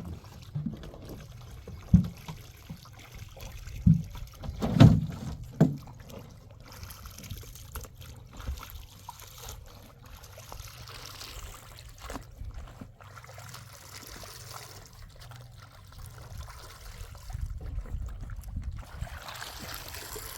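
Running water trickling, with a few dull knocks in the first six seconds.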